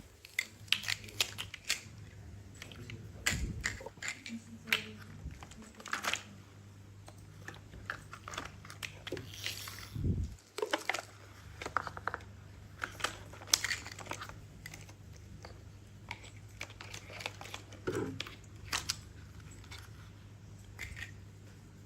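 Plastic toys being handled: irregular clicks, taps and light clatter, with a steady low hum underneath.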